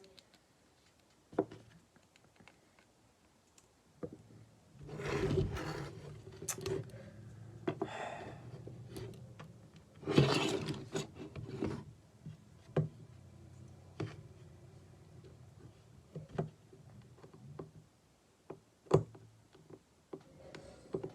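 Plastic Lego parts being pulled apart and handled during a teardown of a model truck: scattered sharp clicks and snaps, with louder bursts of rubbing and clattering about five seconds in and again about ten seconds in.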